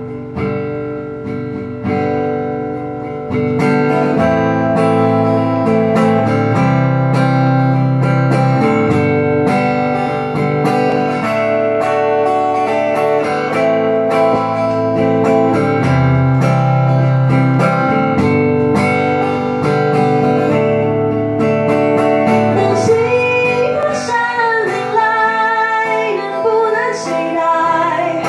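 Acoustic guitar strumming a steady accompaniment in an instrumental passage of a folk-pop song, with a wavering melodic line coming in about three-quarters of the way through.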